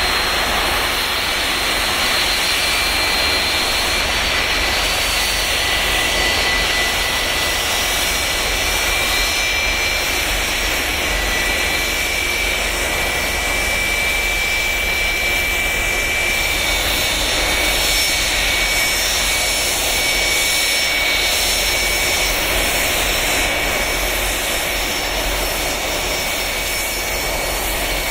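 Boeing 757's jet engines running steadily at idle: an even, loud rush with a steady high whine on top.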